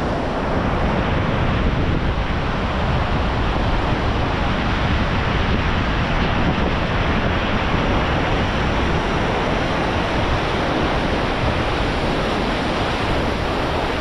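Nevada Fall, a large granite-cliff waterfall, pouring: a loud, steady rush of falling water with no breaks.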